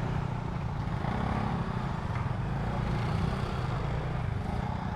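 Motorcycle engine running steadily, a low hum.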